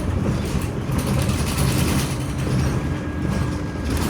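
Scania Omnicity city bus heard from inside while under way: a steady low engine and road rumble with interior fittings rattling and clicking. A faint steady hum joins about halfway through.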